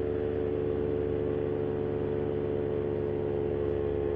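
Vittorazi Moster 185 single-cylinder two-stroke paramotor engine and propeller running steadily at constant throttle in flight, a steady drone with one strong held tone.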